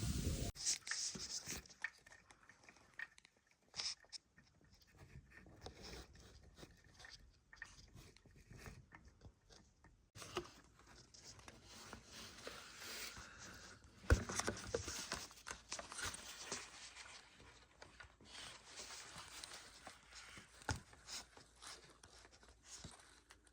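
Faint, irregular crunching and scraping sounds, with a sharper knock about 14 seconds in.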